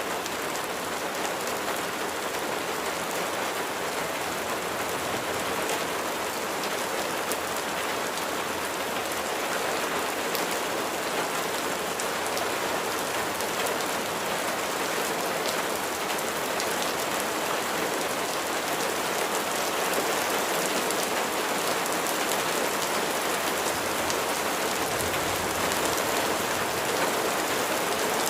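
Steady rain falling, a dense even hiss of drops with fine individual patters on a surface.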